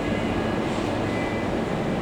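Steady rumbling hum with a few faint steady tones over it, unchanging throughout.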